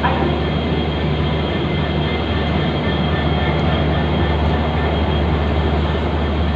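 Steady low hum of a train standing at a station, with a constant engine-like drone and station background noise.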